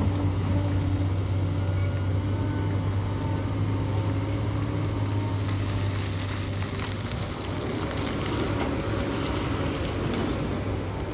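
Hyundai excavator's diesel engine running steadily with a low hum.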